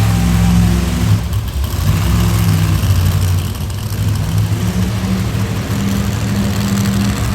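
A large vehicle engine running loud near idle, its pitch stepping up and down every second or so as it is blipped.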